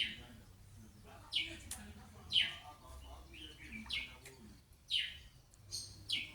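A bird calling: short, sharp chirps that fall quickly in pitch, repeated about once a second.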